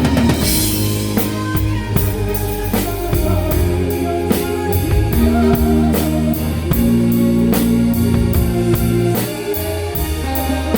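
Live band playing a song: drum kit keeping a steady beat with cymbal strokes, under sustained bass and guitar notes.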